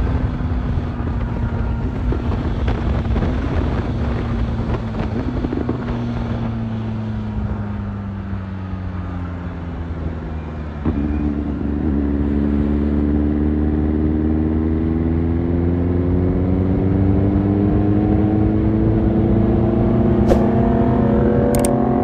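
A vehicle engine running under way: its note drops steadily for about ten seconds as it slows, then about halfway through it picks up with a sudden step in loudness and climbs slowly in pitch as it accelerates.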